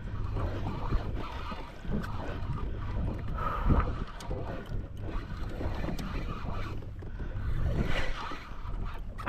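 Wind buffeting the microphone over water lapping against a kayak, with a couple of louder bumps about four and eight seconds in.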